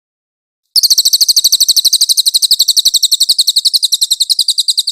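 A small songbird's rapid, high-pitched trill of evenly repeated notes, about a dozen a second, each note sliding slightly down. It starts suddenly about a second in, runs for about four seconds, and cuts off at the end.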